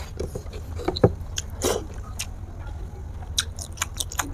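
Close-miked eating sounds: chewing, biting and wet lip-smacks from someone eating chicken feet in sauce, a run of short sharp clicks and smacks with one louder snap about a second in.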